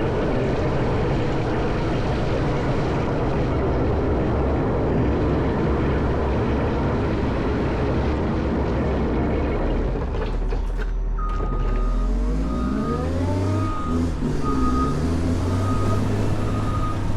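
Caterpillar 140M motor grader's diesel engine working hard while plowing snow. About ten seconds in the plowing noise drops away, the engine note rises and falls, and a reversing alarm starts beeping at a steady rate.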